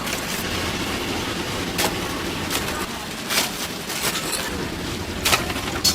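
Chicken deep-frying in oil, a steady sizzle, with a few sharp knocks of utensils or pieces against the fryer.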